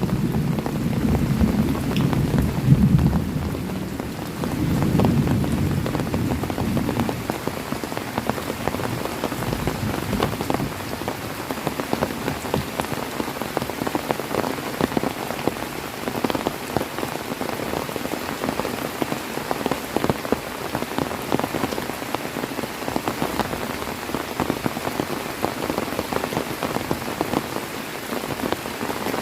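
Heavy rain falling steadily on a surface, with many separate drop strikes. A low rumble of thunder fills the first few seconds and fades out about seven seconds in.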